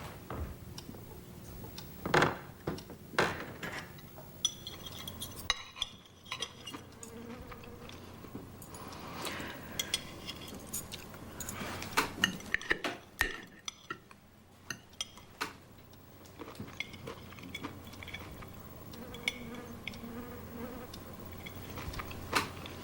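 Cutlery clinking and scraping on dinner plates in scattered sharp clicks, with a faint buzzing tone underneath.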